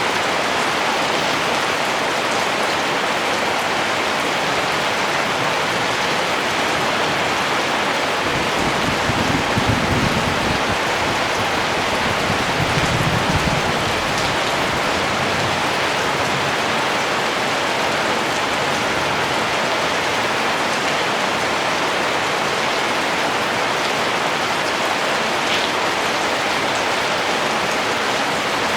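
Steady rain falling, an even dense hiss of many drops. A low rumble swells twice around the middle.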